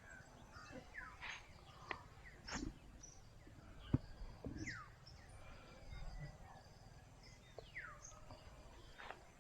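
Birds calling in the open, a scatter of short chirps and quick downward-sweeping whistles over a faint low rumble, with a single sharp click about four seconds in.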